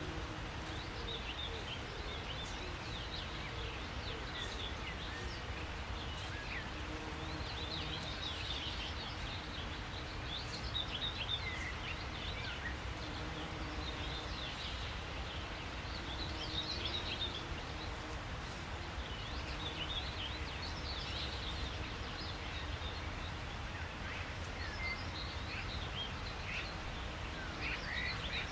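Small songbirds chirping and twittering in quick high clusters every few seconds, over a steady low rumble of background noise.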